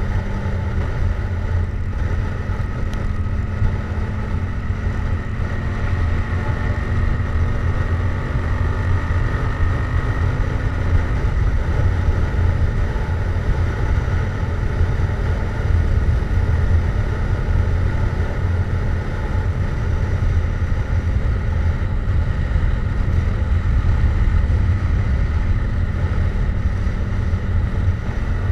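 Yamaha MT-07's parallel-twin engine through a Jeskap GP aftermarket exhaust, running steadily at cruising speed with no revving, a deep continuous drone.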